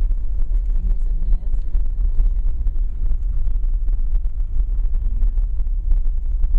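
Steady low rumble of a car driving, heard from inside, with light crackling on the microphone.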